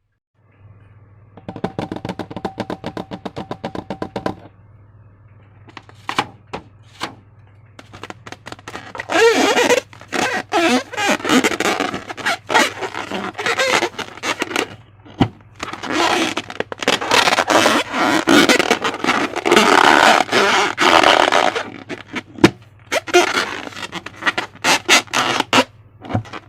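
Slime being worked by hand, with loud sticky squelching and crackling in irregular bursts through the second half. Earlier there is a brief fast run of clicks, and a steady low hum lies underneath.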